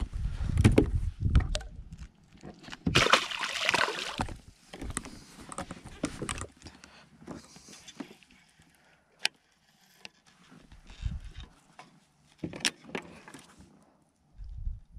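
Irregular bumps, clicks and rattles with some water sloshing aboard a fishing kayak as a just-landed bass and the fishing gear are handled.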